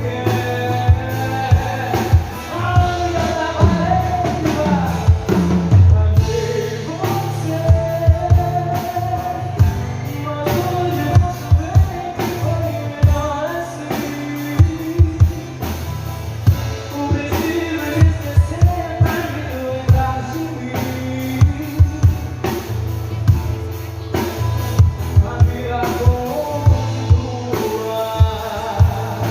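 Live sertanejo band music: a drum kit keeps a steady beat over a strong bass line, with a melody line carried on top.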